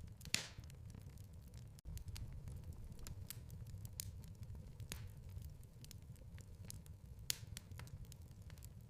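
Wood fire in a fireplace crackling, with scattered sharp pops over a low, steady rumble of the flames. The loudest pops come just after the start and about seven seconds in, and the sound cuts out for an instant just before two seconds in.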